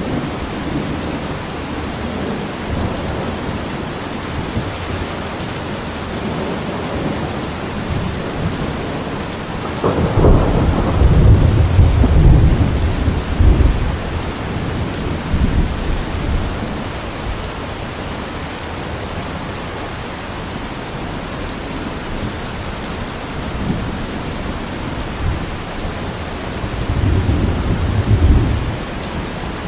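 Steady rain falling, with rolling thunder: a loud low rumble about a third of the way in lasting several seconds, and a shorter rumble near the end.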